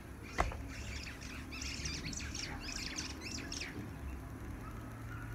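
A sharp click about half a second in, then a quick run of many short, high bird chirps lasting about two seconds.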